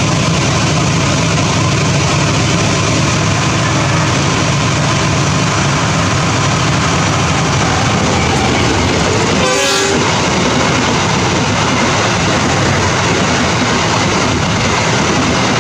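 Steady, loud running noise of a train heard from aboard a moving train, with rails and wheels rumbling, as a passenger train passes on the adjacent track. A brief burst comes about ten seconds in, as the oncoming locomotive goes by.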